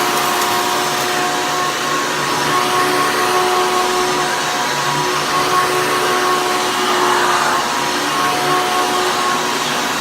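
2001 Hoover Caddy Vac upright vacuum cleaner running steadily while picking up dirt: a steady motor whine over rushing air.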